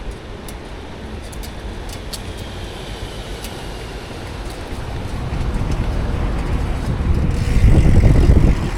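Road traffic noise with a low rumble that builds over the second half, is loudest near the end, then drops off sharply.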